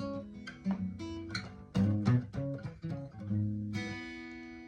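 Guitar playing a blues phrase of plucked single and bass notes, then a chord struck near the end that rings out and slowly fades.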